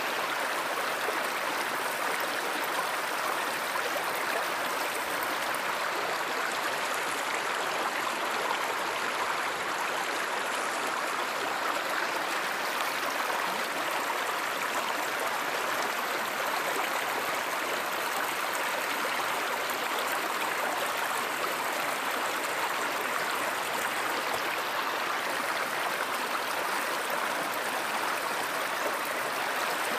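A river or stream flowing steadily, an even rush of running water that does not change.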